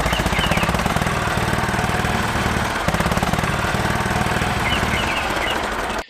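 Small motor of a homemade mini tractor running with a fast, even rattle, cutting off suddenly near the end.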